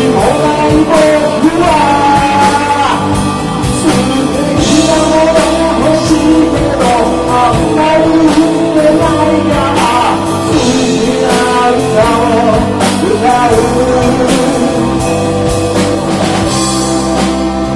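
A live rock band playing a song: a lead vocal sung over guitars and drums.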